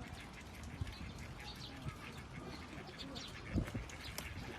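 Several birds chirping and calling in short, scattered notes, with a few low thumps, the loudest about three and a half seconds in.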